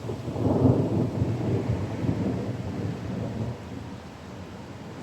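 Thunder rumbling, swelling within the first second and dying away over the next few seconds, over a steady hiss of rain.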